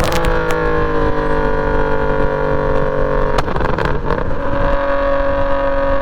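BMW E46 M3's S54 straight-six through a straight-piped exhaust: the revs drop off from high at the start and keep falling slowly for about three and a half seconds. A sharp break comes then, and after it the engine holds a steady lower note.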